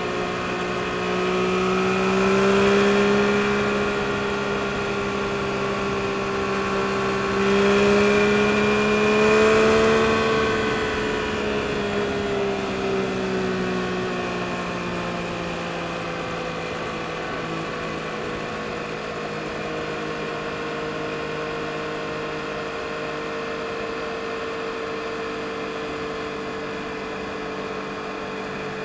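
Yamaha MT-09 SP's three-cylinder engine under way, pulling up in pitch twice, about two seconds and eight seconds in, then easing off to a steady cruise for the rest.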